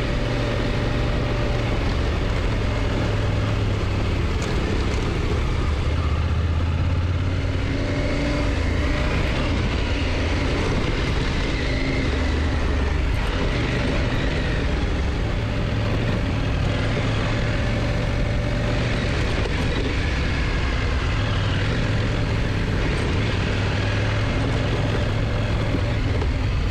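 KTM motorcycle engine running steadily while riding, its pitch shifting a little with engine speed, with steady wind and road noise on the microphone.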